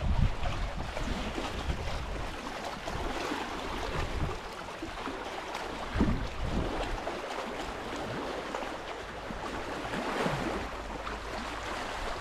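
Wind gusting on the microphone, with low irregular rumbles over a steady outdoor hiss; the gusts are strongest about a second in and again about six seconds in.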